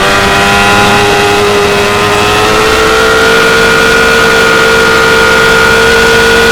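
2016 Yamaha R6's inline-four engine held at high revs under throttle, its pitch edging up slightly about two to three seconds in and then holding steady.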